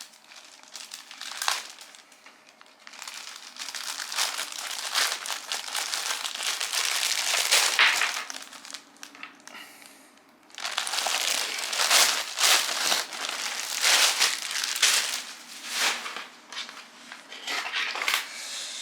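Plastic packaging being crinkled and handled while a pair of pants is unwrapped, in two long spells of rustling with a short pause between them.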